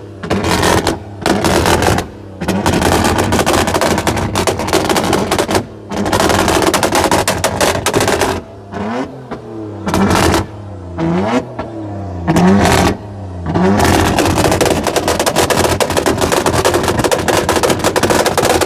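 Loud car engine revved hard and held at high revs, crackling in a rapid machine-gun stutter like an engine bouncing off a rev limiter or two-step. Near the middle it breaks into a run of quick throttle blips that rise and fall.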